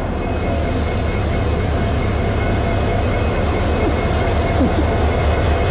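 Passenger train pulling in along a station platform: a steady low rumble with a thin high whine over it, growing slightly louder.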